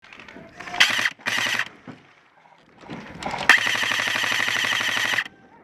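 Airsoft electric gun firing on full auto: two short bursts, then a longer burst of almost two seconds, each a rapid rattle of shots from the gearbox.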